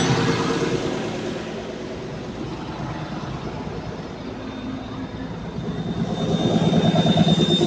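Caterpillar 320D2 L excavator's diesel engine and hydraulic pump running under test. The sound eases off over the first two seconds and builds up again near the end, when a thin high whine joins in.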